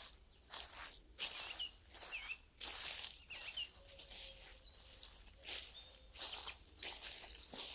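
Footsteps crunching on a forest path at a walking pace, with short high bird chirps and a brief trill between the steps.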